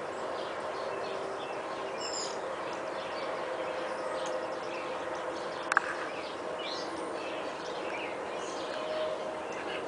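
Outdoor evening ambience: scattered bird chirps over a steady low drone, with one sharp click about six seconds in.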